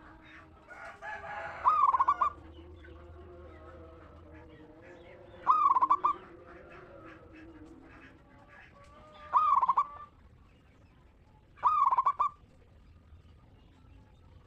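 Zebra dove (perkutut) singing: four short, loud, rapidly pulsed cooing phrases a few seconds apart. A fainter, lower, drawn-out bird call wavers underneath in the first half.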